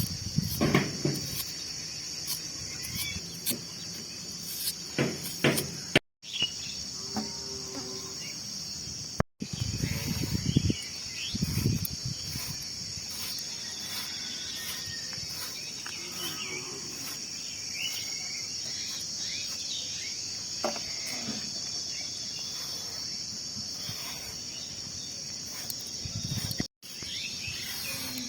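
Steady, high chorus of crickets, with scattered knocks and brief handling noises in the first half. The sound drops out abruptly three times.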